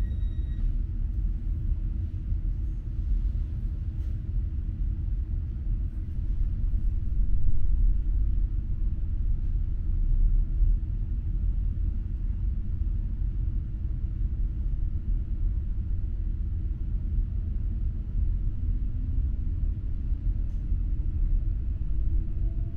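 Steady low rumble inside a double-decker electric regional train moving slowly out of a station, with a steady hum under it. A high steady tone cuts off in the first second, and near the end the hum rises in pitch as the train gathers speed.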